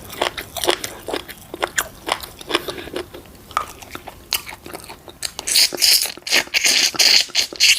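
Close-miked chewing and biting: many wet mouth clicks and small crunches, with a louder, denser stretch of crackly crunching from about five seconds in.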